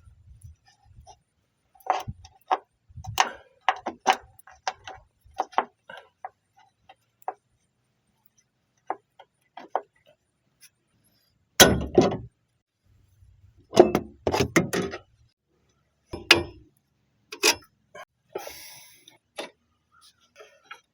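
Irregular metallic clinks and knocks of hand tools and parts during strut replacement work, with a few heavier thuds about halfway through.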